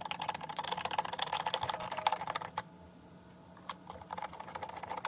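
Screws being driven in with a screwdriver: rapid, dense clicking. It drops away for about a second just past halfway, with a couple of single clicks in the gap, then resumes.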